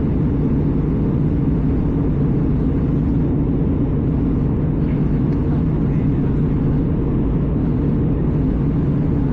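Steady low rumble inside the cabin of an Airbus A320 airliner in flight.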